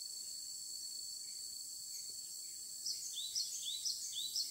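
Steady high-pitched insect drone. About three seconds in, a cinereous tit (gelatik batu) starts a quick run of repeated two-note whistled phrases, about three a second.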